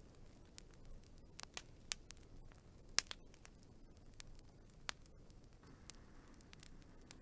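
Wood fire burning with a low rumble and scattered sharp crackles and pops, the loudest pop about three seconds in.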